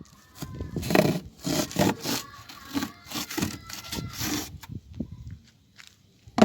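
Repeated rough scraping strokes, about two or three a second, that stop about five seconds in, followed by a single sharp knock near the end.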